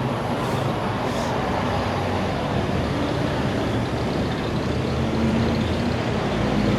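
Large diesel vehicle engine, most likely a bus, running with a steady low drone that grows slightly louder near the end.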